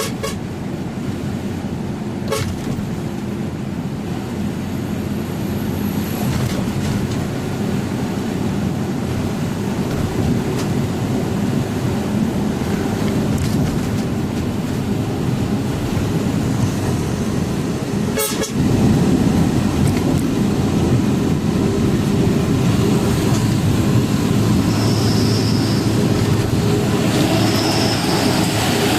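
Truck engine running steadily with road noise while driving. A sharp click comes about 18 seconds in, and the engine is a little louder after it.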